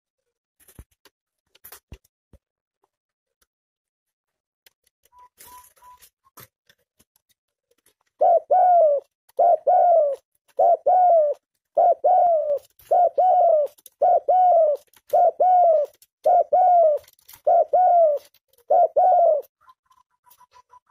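Tame spotted dove (tekukur) cooing: after several quiet seconds, a run of about ten short, double-noted coos about a second apart, stopping shortly before the end.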